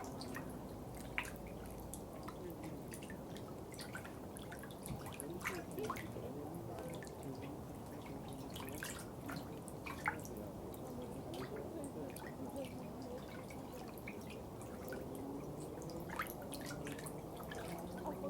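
Water dripping: single drops falling irregularly, several a second, each a short plink, over a steady low wash of water.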